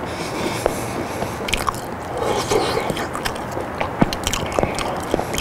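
A person chewing boiled potato close to a pin microphone, with wet smacking and many sharp mouth clicks.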